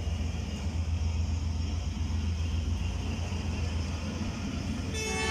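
Low steady rumble from a passenger train at the platform, with a horn starting to sound just before the end.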